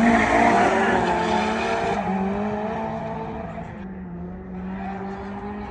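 Race cars' engines pulling away after a drag launch, the sound fading steadily and dropping slightly in pitch as they recede.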